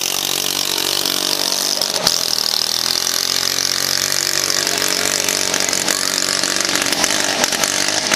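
A small engine running steadily, its pitch dipping slightly midway, under a loud, even hiss of rain or splashing water.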